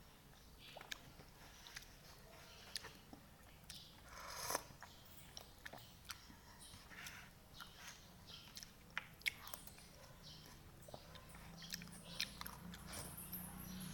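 Close-up eating sounds of noodles being chewed, with scattered mouth clicks and smacks and a louder slurp-like burst about four and a half seconds in. A low hum creeps in near the end.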